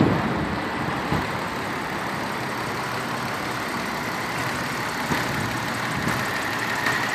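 Dodge Stealth R/T Twin Turbo's 3.0-litre twin-turbo DOHC V6 idling steadily with the hood open. It runs really quiet, with no lifter tick.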